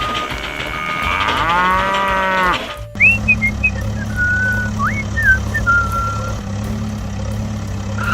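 Cartoon sound effects: short evenly spaced beeps, then a long cow-like moo that rises and falls. After it comes a steady low engine hum with short gliding whistled notes over it.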